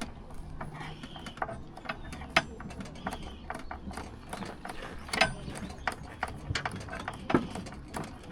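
Irregular sharp clicks and light clacks of small hard objects being handled, several louder clacks among them, over a low steady hum.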